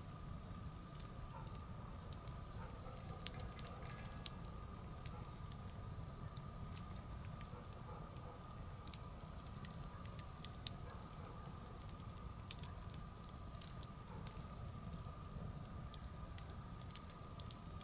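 Wood bonfire burning with scattered small crackles and snaps, a few sharper pops standing out, over a low steady rumble. A thin steady tone sits in the background.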